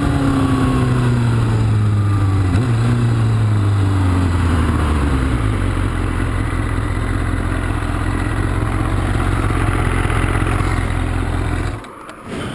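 Kawasaki Ninja sport bike's engine slowing, its pitch falling over the first five seconds or so, then idling steadily until the sound cuts off near the end.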